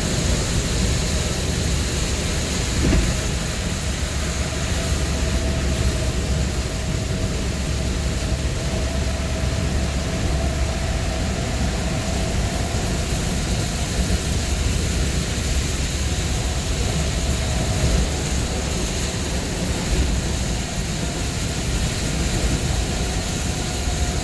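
Steady road and engine noise inside a moving vehicle's cabin: a constant low rumble with a faint steady whine.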